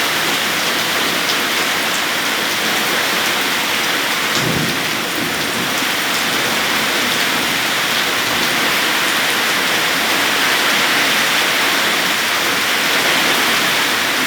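Heavy rain pouring steadily, with a short low rumble of thunder about four seconds in.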